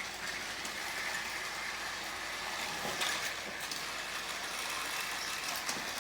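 Several battery-powered Thomas TrackMaster toy trains running together on plastic track: a steady whir of small electric motors and gears, with a couple of light clicks along the way.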